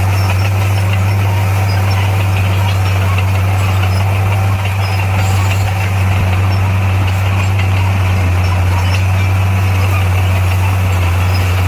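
Heavy diesel earthmoving machine's engine running steadily with a deep, even drone.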